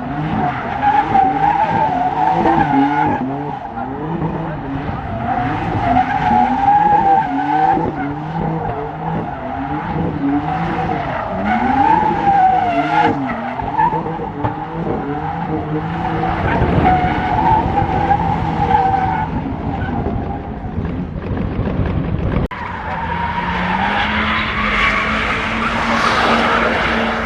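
Car drifting: tyres squealing while the engine revs up and down over and over with the throttle. About three-quarters of the way through there is an abrupt change, after which an engine holds steady high revs under the tyre noise.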